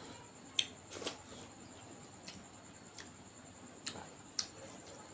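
Close-up eating sounds: about six sharp mouth clicks and smacks from chewing, spread irregularly, over a faint steady high-pitched whine.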